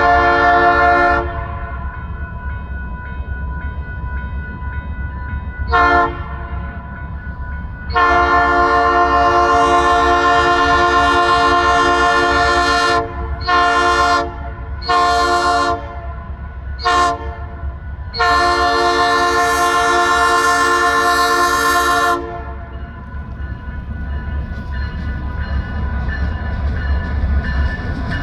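Alaska Railroad locomotive air horn sounding a chord of several tones in a series of blasts: one ending about a second in, a short toot near six seconds, a long blast of about five seconds, two shorter blasts and a quick toot, then a final long blast of about four seconds. The low rumble of the train runs underneath and grows louder near the end.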